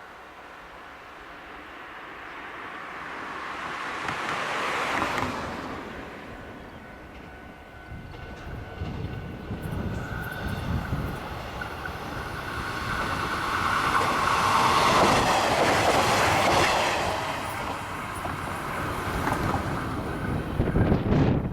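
A train passing close by: the rumble builds, then the wheels clatter over the rail joints, loudest a little past the middle and still going at the end.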